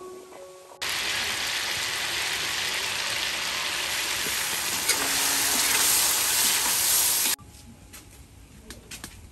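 Chunks of meat and garlic sizzling in sauce in a wok: a loud, even hiss that starts and stops abruptly. After it cuts off there is a much quieter stretch with a few light ticks, while a lidded aluminium pot steams.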